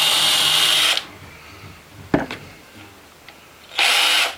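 Power drill boring a shallow hole in wood, running with a high whine and stopping about a second in. A single knock follows, then a short burst of drilling near the end.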